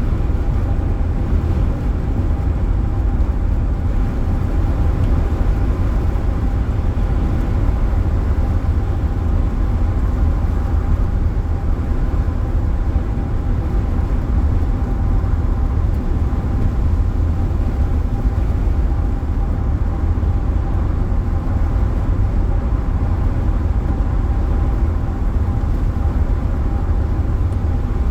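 Steady road and engine rumble heard inside a car's cabin at highway speed, with a faint steady whine over it.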